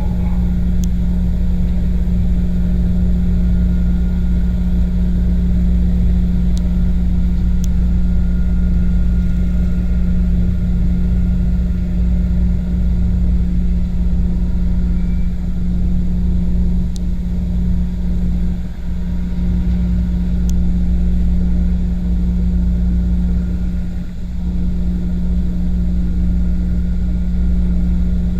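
A vessel's engine droning steadily: a deep rumble under a constant low hum, dipping briefly twice in the second half.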